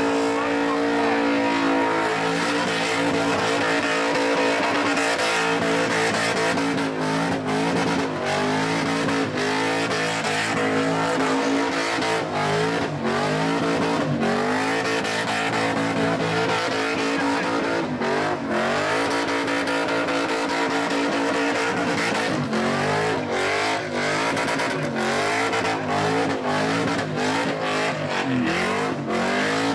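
Supercharged V8 engine of a Holden Commodore revving hard through a burnout, its rear tyres spinning and squealing. The revs hold high at first, then drop and climb again every couple of seconds.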